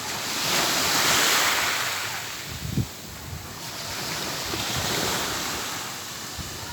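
Ocean surf: a wave breaks and washes up the beach, loudest about a second in, then a second, softer swell follows. A brief low thump comes near the middle.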